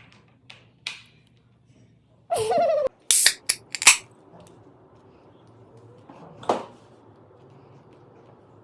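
A brief high-pitched sound gliding downward, followed at once by a quick run of four or five sharp knocks, and one more short noisy burst later on.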